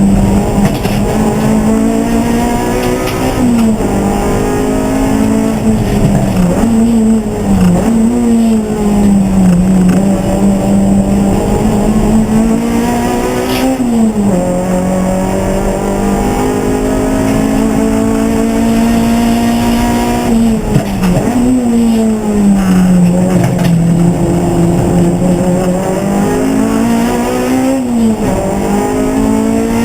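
Race car engine running hard through a lap, its pitch climbing under acceleration and dropping sharply at each gear change every few seconds.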